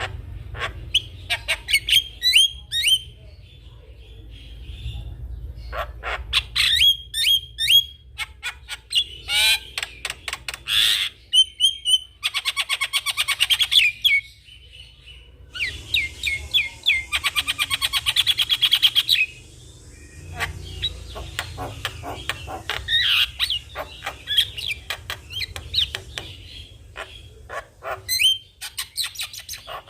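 Javan myna (jalak kebo) singing at length: a varied run of sharp whistled notes, clicks and harsh squawks. Twice, around the middle, it breaks into a long, fast rattling chatter.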